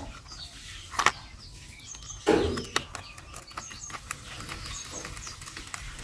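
Scattered clicks and knocks of a screwdriver working screws into a plastic toy racing car, with one knock about a second in and a louder one a little after two seconds. Faint bird chirps in the background.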